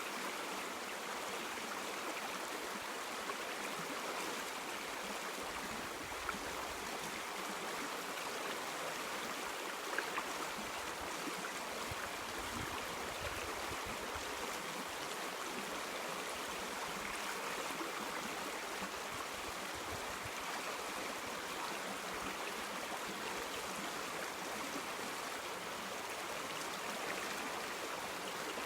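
River water flowing in a steady, even rush, with a few brief ticks about ten seconds in.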